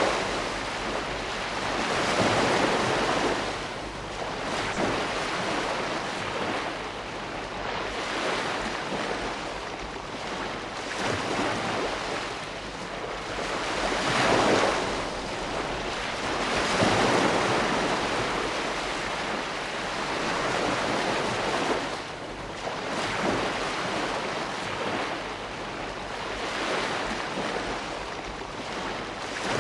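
Ocean waves breaking and washing in, a continuous surf hiss that swells every few seconds as each wave comes in.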